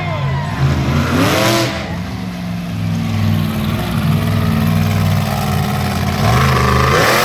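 Monster truck engine running with a steady low drone, revving up and down in the first couple of seconds, with a short rush of noise about a second and a half in and again at the end.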